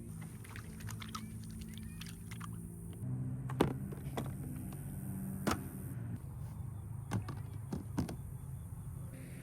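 A motor hums steadily at a low pitch, and several sharp knocks come through it over the last six seconds.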